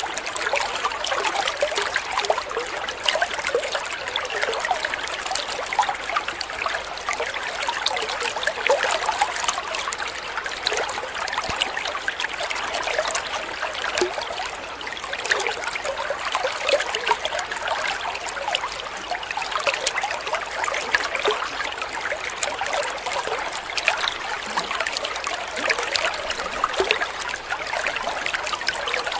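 Stream water trickling and bubbling steadily over stones, a continuous splashy babble without pauses.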